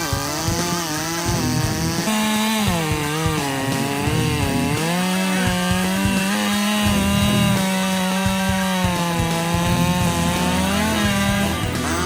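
Two-stroke chainsaw running at high revs and cutting wood, its engine note dipping and recovering again and again as the chain loads up in the cut.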